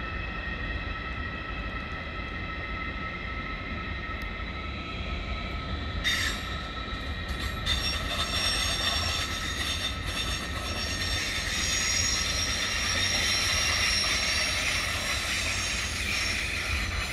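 ICE train moving through the station over a steady low rumble, with a few steady high whining tones. About six seconds in, its wheels begin to squeal on the rails, a cluster of high tones that grows louder toward the end.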